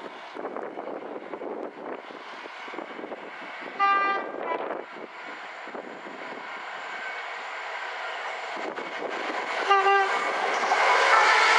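Train horn sounding two short blasts, about six seconds apart, as the rumble of an approaching train grows steadily louder.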